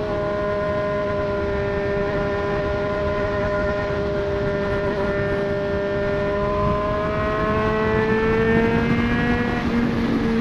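Triumph Street Triple 765 RS inline-three engine through a Racefit Growler full exhaust, running under way at a steady pitch. From about six seconds in it climbs slowly in pitch as the bike accelerates, then eases slightly near the end. Wind rush carries on underneath.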